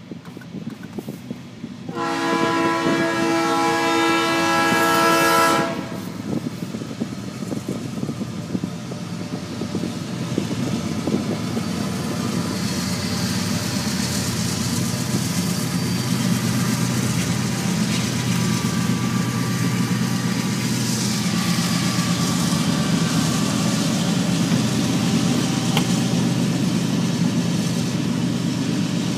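Norfolk Southern freight locomotive 8323's air horn sounds one long chord about two seconds in, lasting nearly four seconds. Then the diesel locomotives run past and the freight cars roll by in a steady rumble.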